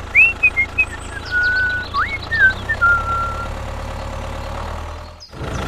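A steady low motor hum, with a run of high whistled chirps and sliding notes over it for the first three and a half seconds. The hum fades and cuts off about five seconds in.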